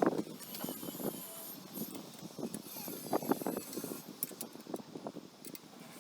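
Irregular handling sounds: light knocks, clinks and rustles of parts being moved, with a few sharp clicks about two-thirds of the way through. No engine is running.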